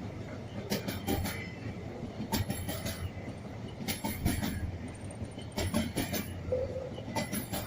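Train cars rolling past, their wheels clacking over a rail joint in a cluster of knocks about every second and a half, over a steady low rumble.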